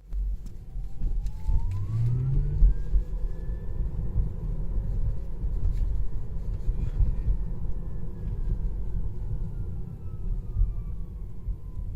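Tesla Model 3 Performance dual-motor drive unit whining over road rumble. The whine rises in pitch as the car accelerates over the first few seconds, holds, then falls slowly as it slows down. It is a loud noise that the owner says began a few weeks after purchase and was not there when new.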